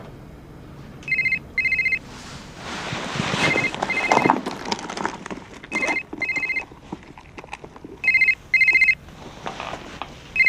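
Mobile phone ringing with an electronic double ring: two short beeps, repeating about every two and a half seconds. Between the first two rings there is a rustling noise.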